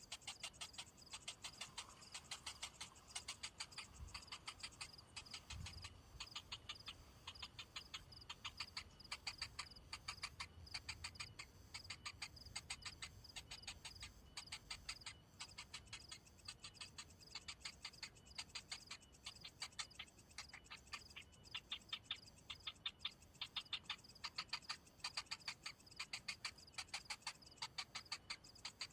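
Faint, rapid ticking calls, several a second, running on steadily over a thin high whine.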